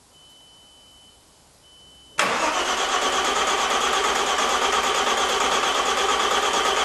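Starter motor cranking a freshly fitted car engine, turning it over for the first time without it firing. It cuts in suddenly about two seconds in and then runs steadily.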